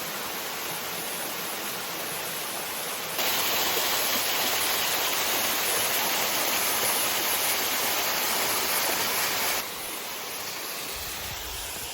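Water of a small creek cascade running steadily over rocks, a continuous rush; it grows louder suddenly about three seconds in and falls back near the end.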